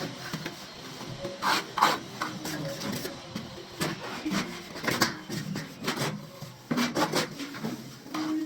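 Plastering trowel scraping mortar on a wall in short, irregular strokes.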